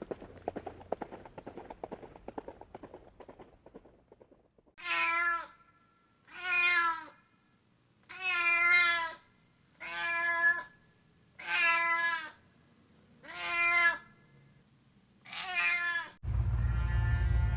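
A domestic cat meowing seven times in a row, each meow under a second long and about a second and a half apart. Before the meows, a run of quick clattering fades away; near the end, a louder steady rumbling noise cuts in suddenly.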